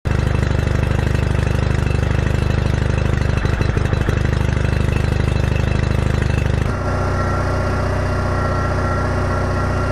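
Tractor engine running steadily. About two-thirds of the way through, its note changes to a different steady pitch.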